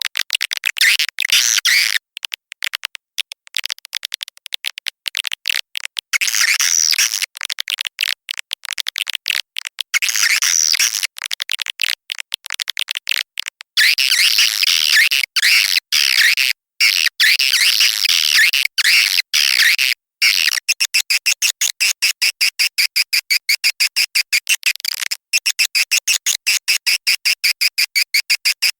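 Swiftlet call lure track ('suara panggil'): recorded swiftlet chirps and twitters, high-pitched and chopped into rapid choppy pulses. From about two-thirds of the way in it settles into an even, fast train of clicky chirps, about five a second. Such a call sound is played to draw swiftlets into a nesting house.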